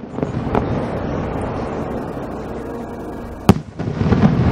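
Aerial fireworks: a low rumble from earlier shell bursts slowly fades, then a firework shell bursts with one sharp, loud crack about three and a half seconds in, followed by a dense rumbling crackle as its stars spread.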